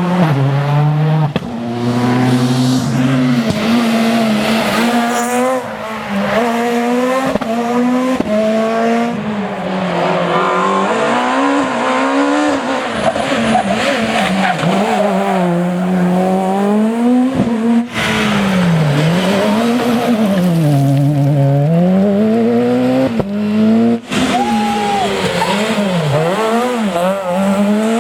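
Super 2000 rally car's naturally aspirated two-litre four-cylinder engine revving hard on a stage, its pitch repeatedly climbing and dropping through gear changes and lifts, with some tyre squeal. The sound breaks off abruptly twice, switching to another passage of driving.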